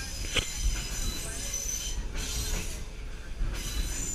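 Passenger train rolling along the track, heard from aboard: a steady low rumble with a high-pitched squeal from the wheels, and one sharp click about half a second in.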